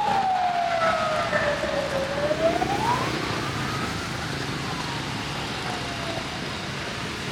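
A siren wailing, its single tone sweeping slowly down, up again, then down more faintly, over steady street traffic noise.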